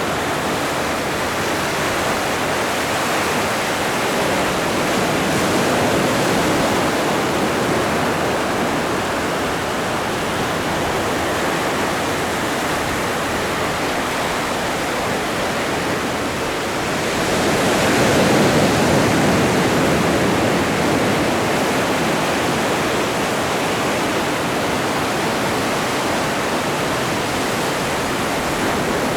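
Atlantic surf: a continuous wash of breaking ocean waves, with one wave swelling louder about two-thirds of the way in and a smaller swell earlier on.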